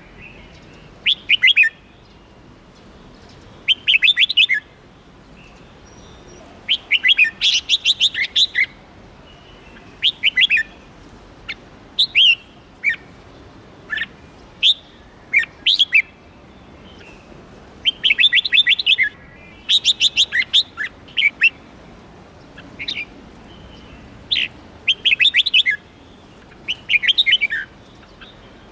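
Red-whiskered bulbul singing: short phrases of quick, sharp chirping notes, repeated every one to three seconds over a faint steady hiss.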